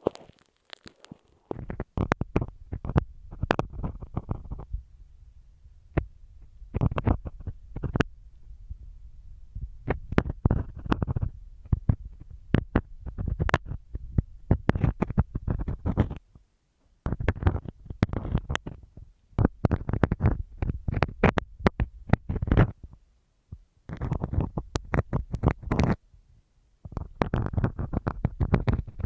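Marking pins scratching and tapping on masking tape stuck over a TASCAM recorder's microphone, recorded very close. It comes in clusters of scratchy crackles with deep rumbling thumps, a few seconds each with short pauses between, starting after a quiet first second or so.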